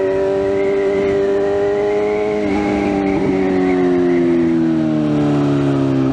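BMW S1000RR inline-four motorcycle engine running under way at fairly steady revs. Its pitch eases gradually lower over the second half, with a brief break in the note about two and a half seconds in and again at the end.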